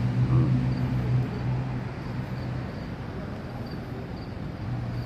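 Quiet street ambience with a low, steady mechanical hum that drops away about halfway through and comes back near the end.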